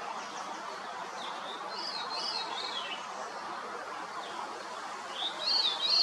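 A songbird singing two short phrases of quick, rising-and-falling high notes, the second near the end and louder, over a steady background hiss.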